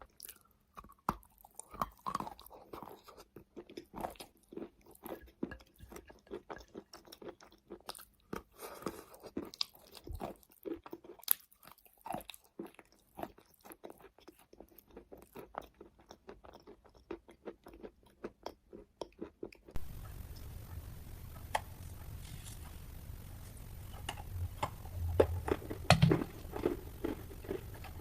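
A person biting and chewing wet chalk close to the microphone, heard as a dense run of soft crunches and small clicks. About two-thirds of the way through, a steady hiss and low hum come in underneath, and the crunches are loudest a little before the end.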